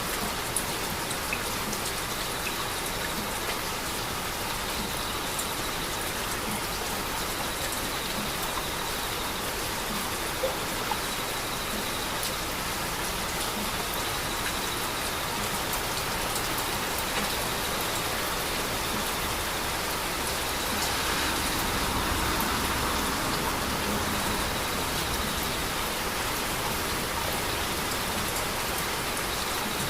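Steady heavy rain falling, with scattered drops ticking on a surface. It swells a little about two-thirds of the way in.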